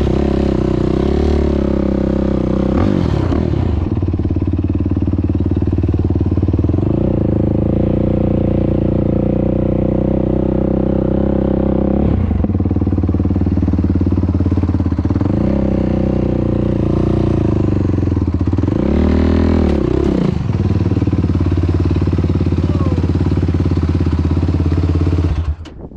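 Yamaha YFZ450R's single-cylinder four-stroke engine running loudly through a Rossier R5 aftermarket exhaust, held at steady revs with a few brief rises and falls in pitch as the throttle is worked. The sound stops abruptly near the end.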